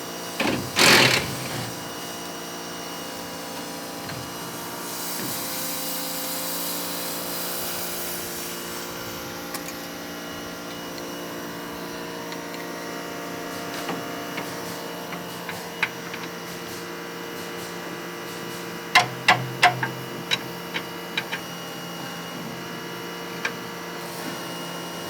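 Workshop background: a steady mechanical hum, with a stretch of hiss from about five to nine seconds in and a quick run of sharp metallic clicks and knocks from hand tools around nineteen to twenty-one seconds.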